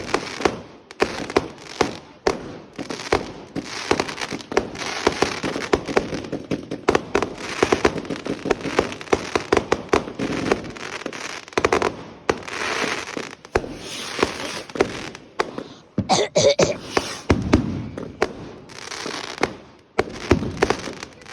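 A fireworks display going off, with many sharp bangs in quick succession and crackling between them.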